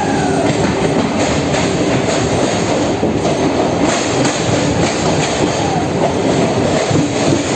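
Train running through a railway tunnel: a loud, steady rumble of wheels on the rails, with faint wheel squeal.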